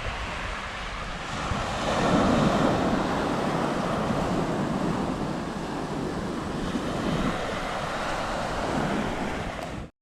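Surf washing onto a sandy beach with wind buffeting the microphone; the wash swells louder about two seconds in and again near the end, then cuts off abruptly.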